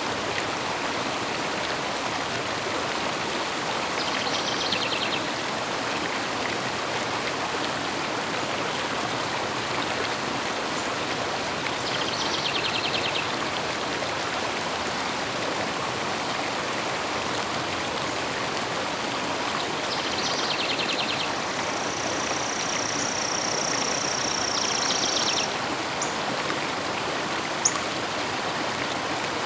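River water flowing steadily, with a short trilled bird call repeating about every eight seconds. Near the end a bird holds one long, steady high whistle for about three seconds, and a single sharp click follows shortly after.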